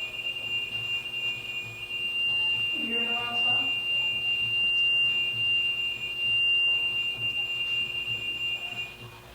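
Steady high-pitched electronic tone from a ghost-hunting detector device, cutting off suddenly near the end.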